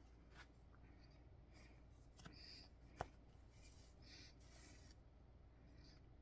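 Faint, soft rustling of thread being pulled through cross-stitch fabric, with a single sharp click about three seconds in.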